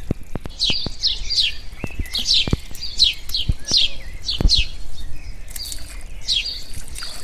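A bird chirping over and over in short, quickly falling notes, often in pairs, with a few sharp wet slaps and squelches of feet and hands moving in thick mud.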